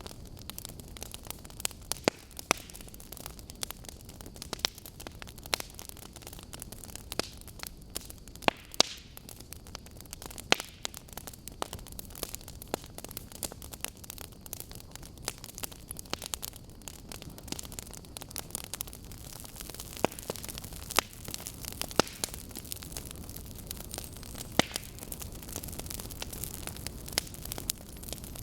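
Wood fire of burning logs crackling: irregular sharp pops and snaps, a few much louder than the rest, over a steady low rumble and hiss of the flames.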